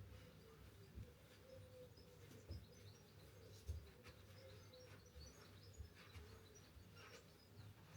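Faint birdsong: scattered short, high chirps over a quiet background, with a few soft low thuds, the loudest a little under four seconds in.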